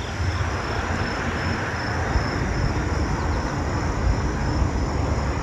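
Steady rumble and hiss of a car driving, with faint high insect chirps repeating in the background.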